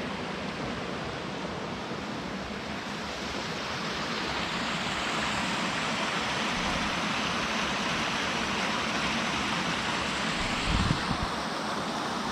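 Steady rush of a mountain stream's water over rocks, growing a little louder about a third of the way in, with a brief low thump near the end.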